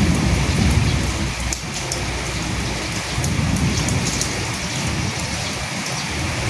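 Steady heavy rain hissing on a surface, with many sharp drop ticks and a low rumble that swells and fades twice.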